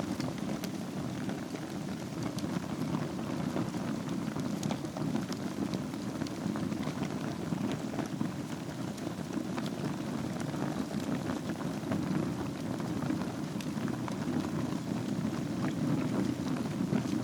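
Wood fire burning in a fireplace over a bed of embers: a steady low rushing of the flames with scattered sharp crackles and pops.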